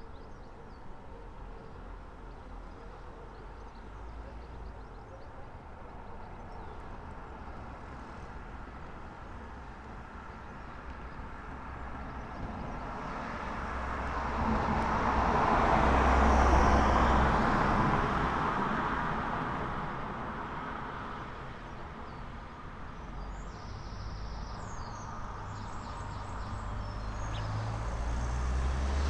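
A vehicle passing along the street: its engine and tyre noise swells to a peak about halfway through, then fades. Near the end a second vehicle is approaching.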